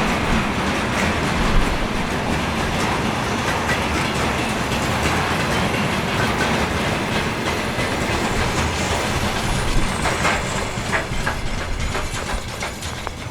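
A train passing close by on the track, its wheels clattering over the rail joints in a run of sharp clicks near the end, before the noise falls away.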